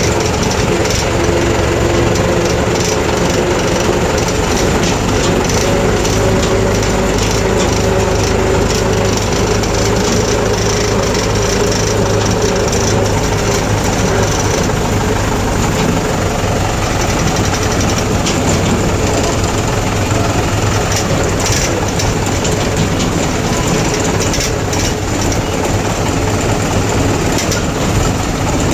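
Tractor diesel engine running steadily, with a continuous low rumble and a rattle.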